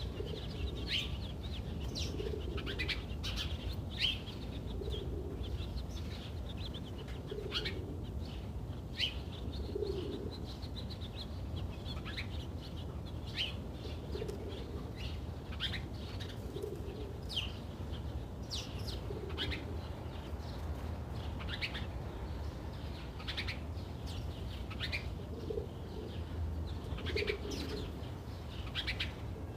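Backyard birds calling: many short, quick, high chirps throughout, with a low soft cooing call every few seconds, over a steady low rumble.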